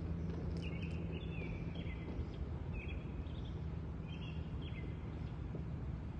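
A bird giving short chirping calls, about four times, over a steady low hum of background noise.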